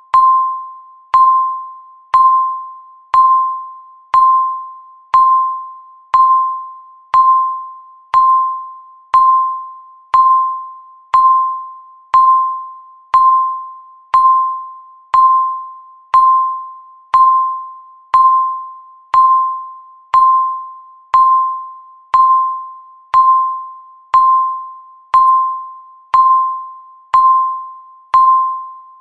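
Countdown timer beeping once a second. Each beep is a single mid-pitched electronic tone that starts sharply and fades away before the next.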